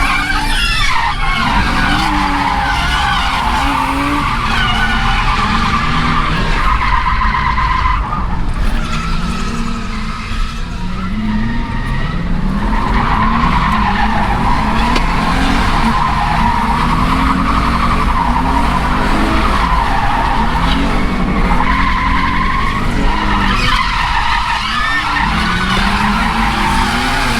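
Nissan 350Z's 3.5-litre V6 revving up and dropping back over and over while drifting, with tyres squealing and skidding under sustained wheelspin. The revs briefly ease off about ten seconds in before building again.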